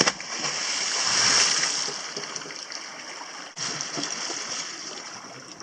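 A person jumping into the sea: a sharp splash, then the rush of churned water that peaks about a second in and fades. A softer water noise starts abruptly a little past halfway.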